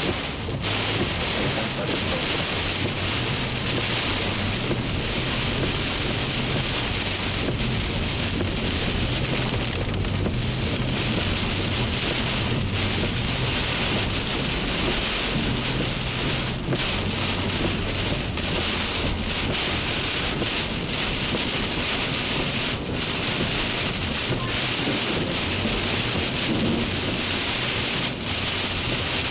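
Heavy rain falling steadily in a thunderstorm, an even, unbroken hiss.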